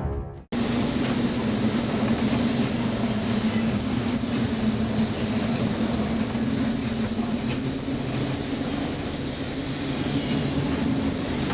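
Steady drone of a vessel's engine running under an even rush of noise.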